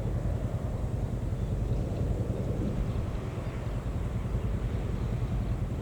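Steady low rumble of a CC 203 diesel-electric locomotive running, even in level throughout.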